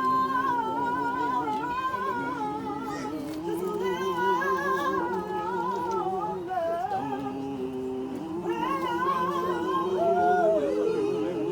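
Several voices singing a slow melody together, with wide vibrato, one higher voice wavering above lower held notes.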